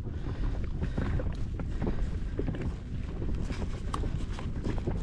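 Wind on the microphone, a steady low rumble, with scattered small knocks and taps from handling on a small inflatable boat.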